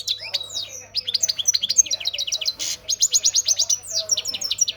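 European goldfinch (mqnin) singing a fast, continuous run of high twittering chirps and short rapid trills.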